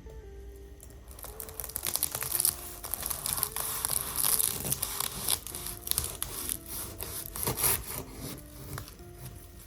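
Crisp baked filo pastry crackling and crunching in a dense run of sharp crackles, starting about a second in, over soft background music.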